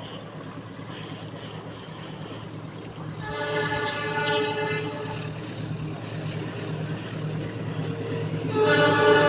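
Indonesian CC206 diesel locomotive running with a steady low hum; about three seconds in its air horn begins a long chord of several notes, which swells louder near the end.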